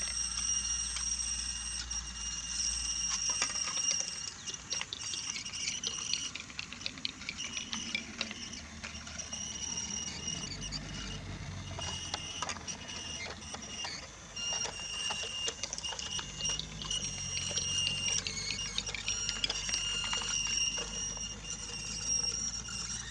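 Small electric motor of a battery-powered Brio toy locomotive whining as it runs, fading in and out, with wheels clicking over the joints of wooden track.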